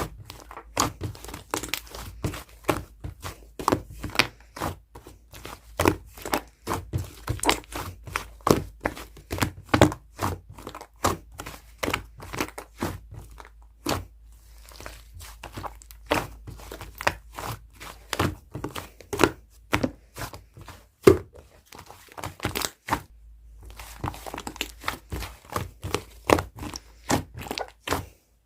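Fluffy clay slime being kneaded and pressed by hand, its trapped air pockets popping in quick, irregular clicks and crackles, with two brief pauses.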